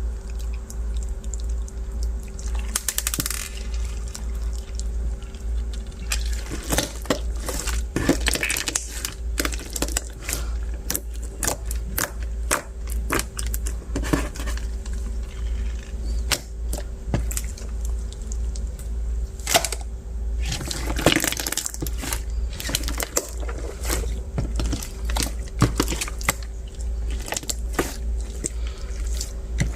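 Translucent bead slime being played with by hand: irregular squishing with many small clicks and crackles from the beads, thicker for a moment about two-thirds of the way through.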